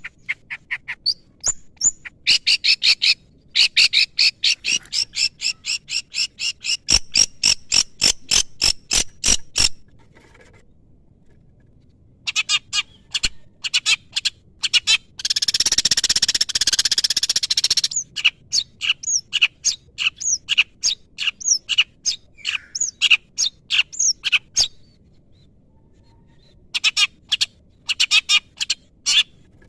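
Long-tailed shrike (cendet) singing in bouts of rapid, sharp repeated notes, about four a second, broken by two short pauses, with a harsh rasping burst of about three seconds near the middle.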